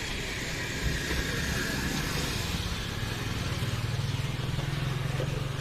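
A motor vehicle's engine running with a steady low hum that grows louder about halfway through and eases off near the end, over a background hiss.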